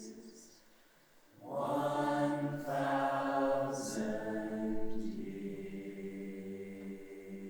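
A choir singing sustained chords: a held chord dies away, then after a brief pause many voices come in loudly on long notes, easing to a softer held chord near the end.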